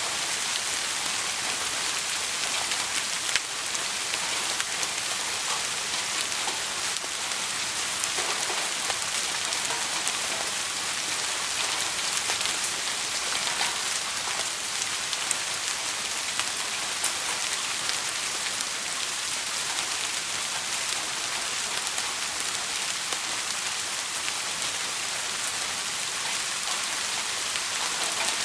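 Steady rain with a dense hiss of falling drops and scattered sharp ticks, and one louder tick or snap about three and a half seconds in.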